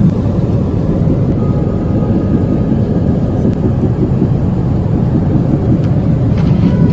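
Steady low rumble of a Boeing 777's jet engines and airflow, heard from inside the passenger cabin.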